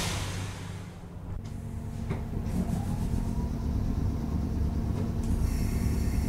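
A JR 101 series electric train heard from on board: a steady low rumble with a faint humming tone. A faint tone rises in pitch about two and a half seconds in, and thin high tones come in near the end.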